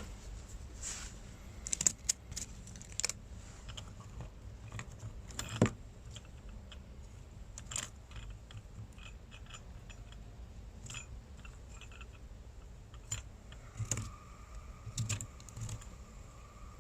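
Small metal gear being handled: scattered light clinks and clicks, the sharpest about five and a half seconds in, with a faint steady tone coming in near the end.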